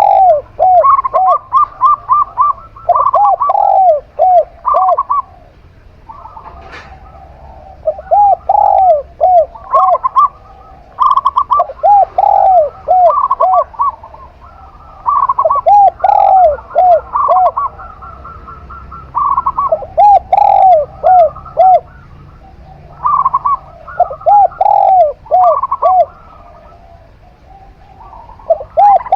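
A zebra dove (perkutut) and a spotted dove (tekukur) cooing in repeated phrases every few seconds, their calls often overlapping. One voice gives lower, arched coos in groups of four or five; the other gives higher, quicker runs of short coo notes.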